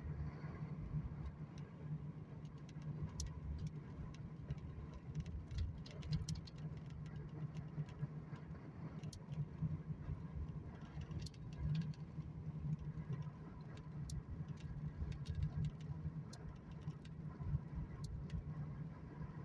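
A steady low mechanical hum with scattered sharp clicks and ticks over it.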